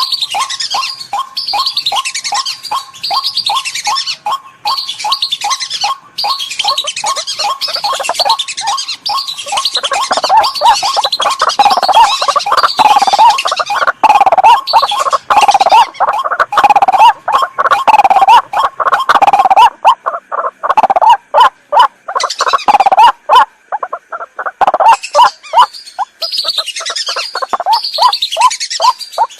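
Recorded bird-lure calls of white-breasted waterhen and whistling ducks playing together. A dense chorus of high, falling whistles sits over a fast, evenly repeated lower call. The whistles drop out briefly twice in the second half.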